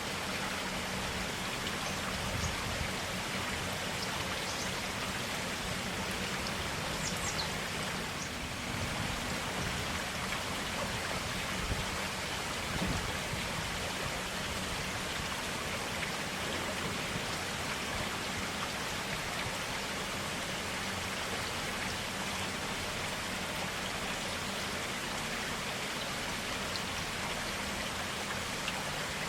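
Forest stream flowing steadily, a continuous even rush of water.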